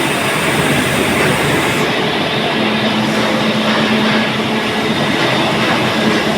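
Steel pipe mill machinery running: a loud, steady mechanical rumble, with a low hum joining in about two and a half seconds in.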